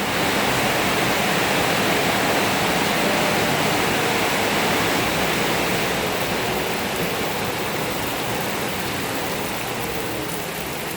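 Very heavy rain pouring down as a loud, steady hiss that eases a little toward the end.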